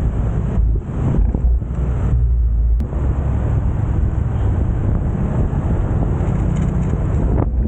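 Wind buffeting the microphone on a moving motorcycle, a loud, steady low rumble that eases for a moment a few times in the first three seconds.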